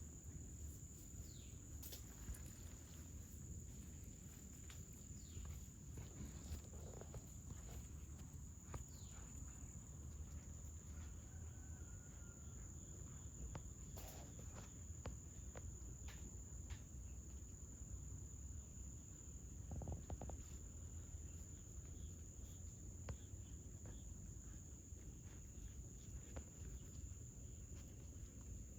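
Faint, steady high-pitched insect trill that runs on without a break, over a low rumble, with scattered small clicks and rustles.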